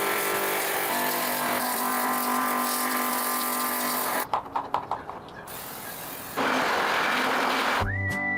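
An old tractor engine running steadily for about four seconds, then a few sharp knocks and a steady hiss. Music with a whistled melody comes in near the end.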